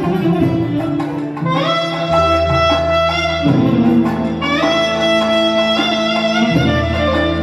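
Instrumental music on an electronic keyboard (org): a melody of long held notes in a saxophone-like voice over sustained bass notes, moving to a new note every second or two.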